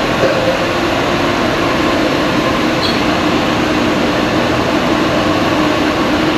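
Steady, loud mechanical air noise from a large fan or ventilation blower, with a faint steady hum and no change in speed.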